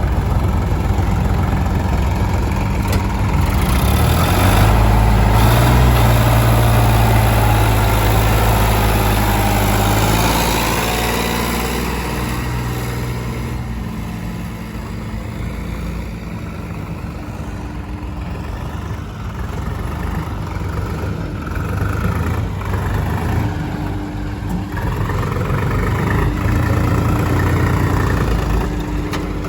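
Diesel engines of farm tractors and a JCB loader running at work during sand loading. The engine noise swells for several seconds early on, eases off in the middle and builds again near the end.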